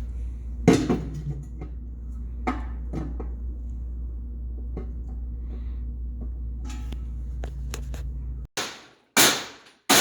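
Scattered knocks and clanks of metal over a steady low hum, then, after an abrupt cut near the end, a series of loud hammer blows on metal, about one every 0.7 seconds, used to beat clearance dents into the metal.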